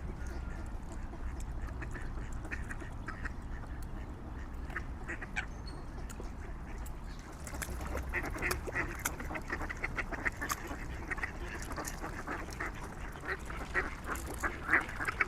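Waterfowl calling: scattered short quacking and honking calls that grow busier about halfway through, with rapid runs near the end. A low steady rumble lies underneath.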